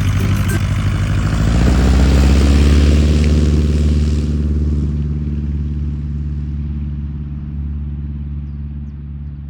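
Jodel D182 light aircraft's propeller engine running at power as the plane passes close by, loudest about two to three seconds in, then fading steadily as it moves away.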